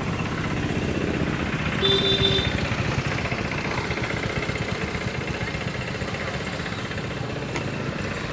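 A motor vehicle engine running steadily with a fast low pulse, and a short tone about two seconds in.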